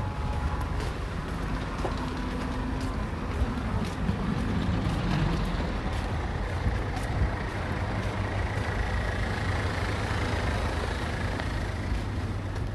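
Road traffic, with a heavy vehicle's engine running close by as a steady low rumble.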